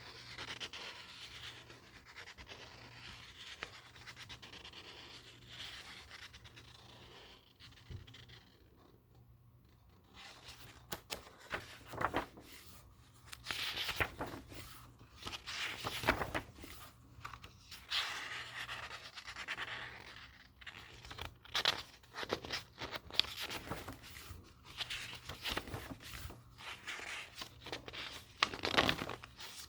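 Book pages handled close up: a soft papery rubbing at first, then from about ten seconds in, repeated crisp page flips and rustles.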